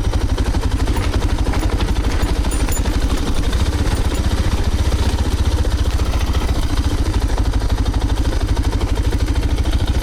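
Motorcycle engine running steadily with an even, pulsing beat, loud and close.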